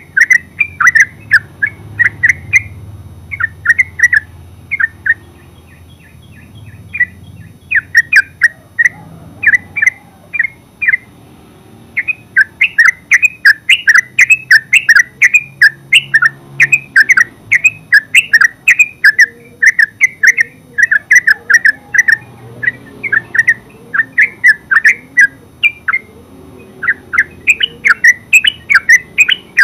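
Yellow-vented bulbul giving a rapid, continuous run of loud chirping calls, several notes a second, pausing briefly a few times.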